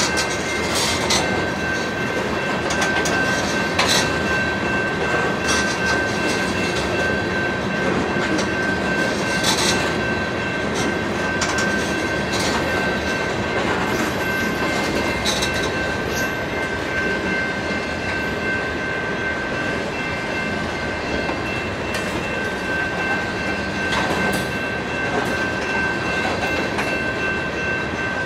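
Freight train tank cars rolling past, steel wheels running on the rails with a steady rumble and scattered clicks. A thin steady high tone rings over it most of the time.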